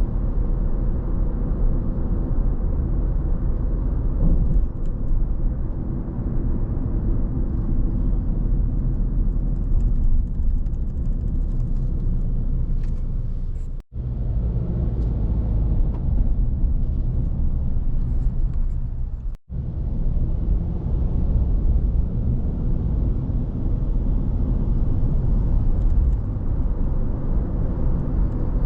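Steady low rumble of a car driving: tyre and engine noise on the road. The sound cuts out for an instant twice, about halfway and two-thirds through.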